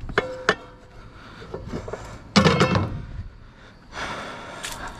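Metal pots and pans clanking together as they are handled: a couple of knocks at the start, then a louder ringing clatter about two and a half seconds in.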